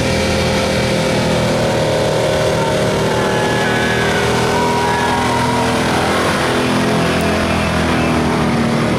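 1985 Chevrolet pickup's gas engine running at high revs under heavy load, steady and loud, as it drags a weighted truck-pull sled.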